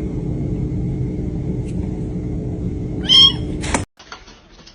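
A domestic cat meows once, about three seconds in, over a steady low hum. The hum cuts off suddenly just afterwards.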